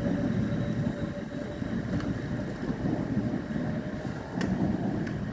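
A train running at a station platform: a steady low rumble, with a faint steady tone in the first couple of seconds and a few sharp metallic clicks.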